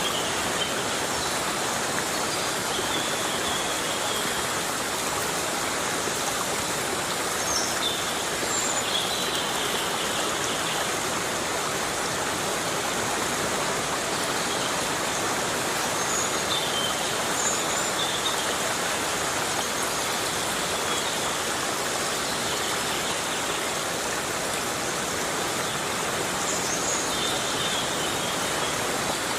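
Heavy rain falling as a steady, even hiss, with a few short high chirps now and then.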